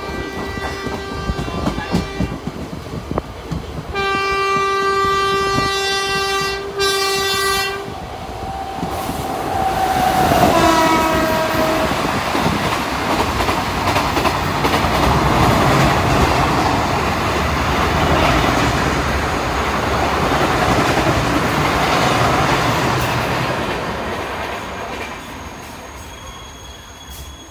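Indian Railways locomotive horn sounding several blasts, the last one dropping in pitch as the train passes at speed. The rush and clatter of a long rake of coaches going by follows, fading near the end.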